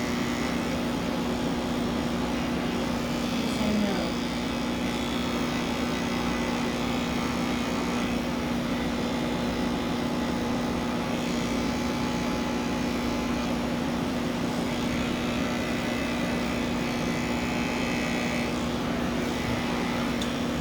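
Electric pet grooming clippers running steadily, with a constant hum, while shaving down a cat's coat.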